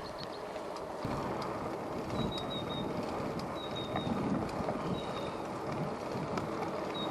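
Strong wind buffeting the microphone over the rolling noise of a bicycle ride, with scattered small clicks. A short high squeak recurs about every second and a half from about two seconds in.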